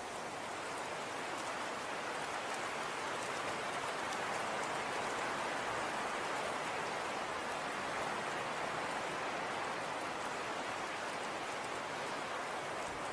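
Falling snow pattering steadily on a surface: an even hiss with faint scattered ticks of landing flakes.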